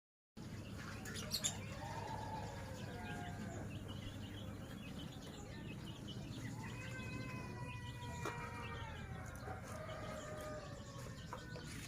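Birds calling in drawn-out, slightly wavering notes, in two spells, over a steady low rumble. Two sharp clicks come about a second and a half in.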